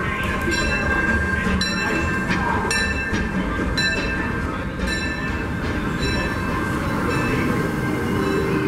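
Disneyland Railroad narrow-gauge steam train rolling across a steel truss bridge overhead: a steady rumble, with a sharp wheel clack over the rail joints roughly once a second and a thin steady squeal.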